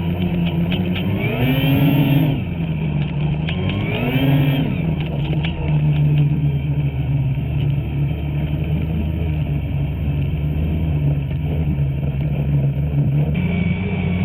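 Two-stroke snowmobile engine running, revved up and back down twice in quick swoops about a second and a half and four seconds in, then holding a steady pitch.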